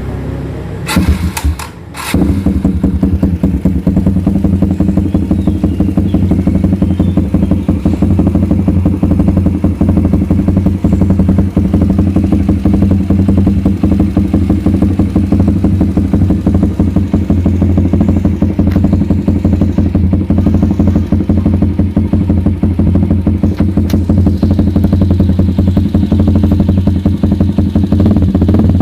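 Kawasaki D-Tracker 150 SE's single-cylinder four-stroke engine starting about two seconds in, then idling steadily and loud through an aftermarket Proliner racing exhaust.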